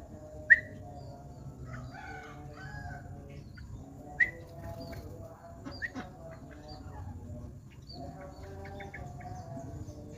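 Birds calling: three sharp, loud chirps, about half a second, four seconds and six seconds in, among softer twittering. A rooster crows in the background.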